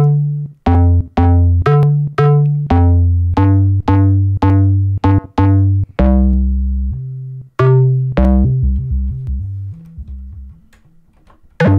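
Tone 2 Icarus software synthesizer playing a bass patch: a run of bass notes at about two a second, each with a bright attack that quickly darkens. A longer low note comes about six seconds in, followed by quicker, softer notes that fade away.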